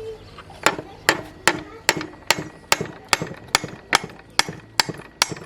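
Hammer blows struck in a steady rhythm, about two or three a second, each a sharp strike with a short ring.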